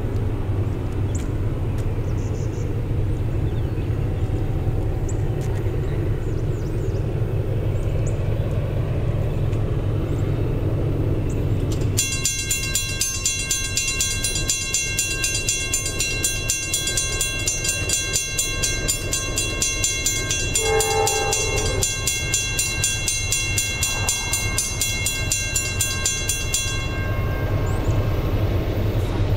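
Low steady rumble of an approaching freight train, with a high, pulsing warning signal that starts about twelve seconds in, sounds without a break for about fifteen seconds and cuts off suddenly.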